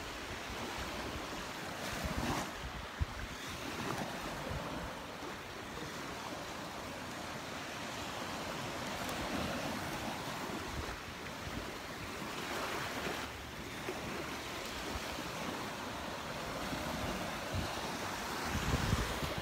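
Gulf of Mexico surf washing onto the beach, swelling as waves break every few seconds, the biggest near the end, with wind buffeting the microphone.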